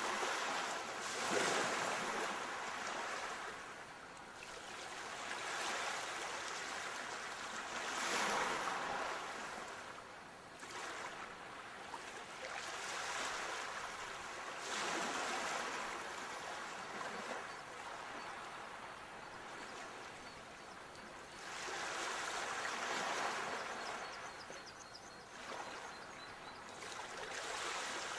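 Sea waves washing in and drawing back, in irregular swells of noise every few seconds.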